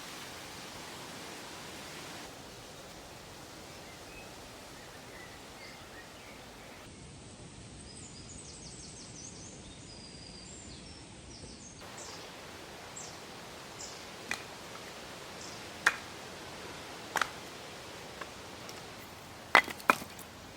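Steady outdoor woodland ambience with a few faint high chirps, then, from about twelve seconds in, a string of sharp knocks and cracks from wood being worked to build a campfire.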